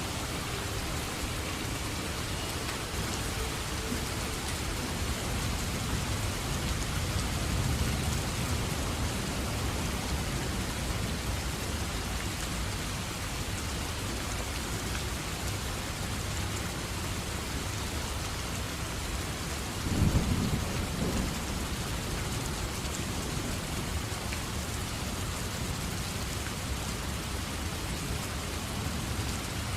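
Steady heavy rain pouring down through a thunderstorm, with a low thunder rumble building and fading near the start and a sharper, louder clap of thunder about two-thirds of the way in.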